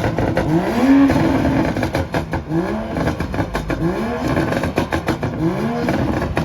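A car engine revved hard over and over, its pitch climbing and dropping about five times, with sharp crackles and pops throughout.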